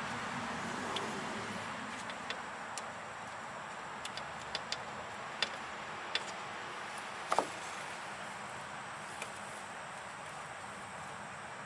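Scattered light metallic clicks and taps of a hand tool and bolts against the engine as fasteners are run down by hand, with a sharper double knock about seven seconds in, over a steady background hiss.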